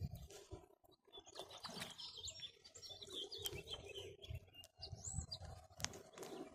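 Small birds chirping and twittering, many short high chirps and whistles from about a second in, with a few sharp clicks and low thumps from handling.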